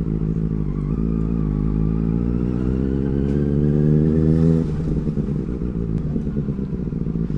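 Benelli 600i's inline-four engine accelerating, its pitch rising steadily for about four and a half seconds, then falling away suddenly and running lower and rougher.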